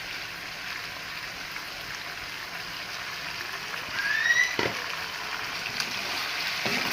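Chicken pieces sizzling in a hot pan of sauce, a steady frying hiss. About four seconds in there is a short rising squeak, then a single knock of a utensil against the pan.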